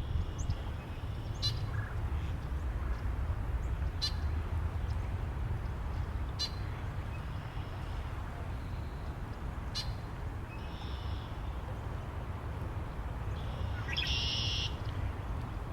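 Steady low wind rumble with scattered bird calls: short sharp chips every two to three seconds and a louder, brighter call near the end.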